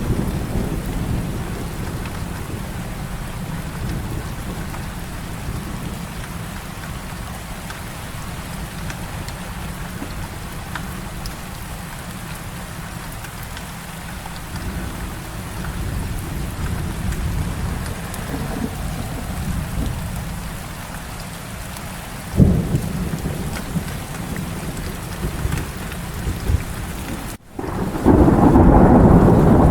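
Heavy rain falling steadily with thunder rumbling low underneath, and a sharp crack of thunder about two-thirds of the way in. Near the end the sound cuts out for an instant and the rain comes back louder and brighter.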